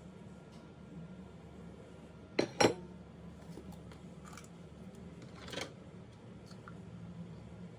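Metal kitchen utensils knocking against a cooking pot: two sharp clanks close together about two and a half seconds in, a softer one a few seconds later, and a few faint clicks, over a low steady hum.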